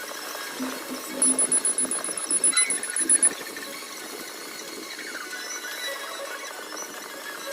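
Rapid, very high-pitched electronic-sounding beeping, about eight beeps a second, in a run of about two seconds starting a second in, over a faint steady background.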